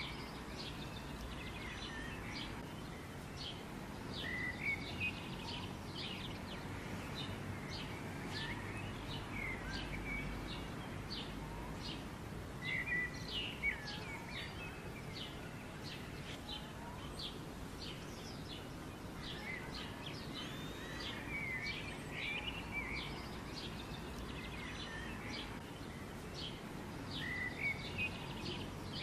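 Small birds chirping and twittering in quick high notes, over steady low outdoor background noise.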